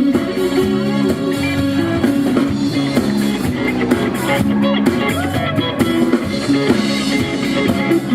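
Live funk band playing an instrumental groove, with guitar over drum kit.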